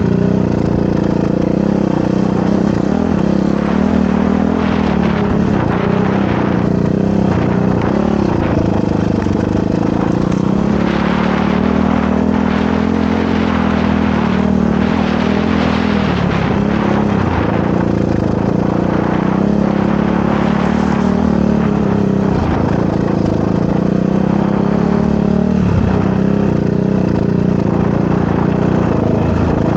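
Motorcycle engine running continuously while being ridden, its pitch rising and falling over and over as the throttle opens and closes.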